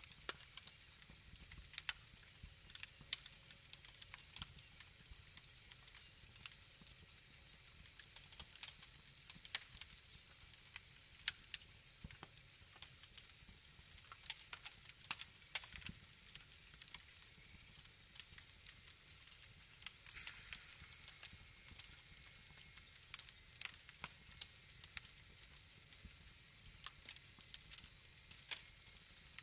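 Wood fire crackling: irregular sharp pops and snaps over a faint steady hiss, with a brief swell of hissing about twenty seconds in.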